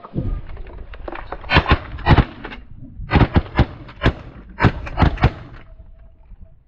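A quick run of sharp knocks and clacks, several in close pairs, dying away near the end.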